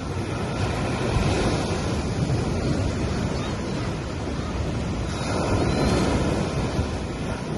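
Sea waves washing onto a beach: a steady surf wash that swells twice, about a second in and again a little past the middle.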